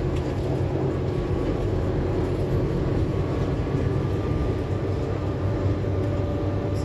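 Scania K280UB4 city bus's five-cylinder diesel engine running steadily, heard from inside the passenger cabin with a constant low hum and road noise. A faint thin whine runs over it, and a second, lower whine joins about five seconds in.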